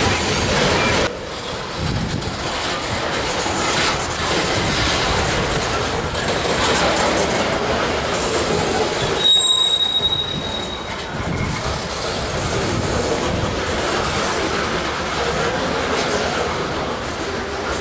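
Freight train of covered hopper cars rolling steadily past, with the continuous rumble and clatter of wheels on rail. About halfway through, a brief high-pitched wheel squeal lasts about a second.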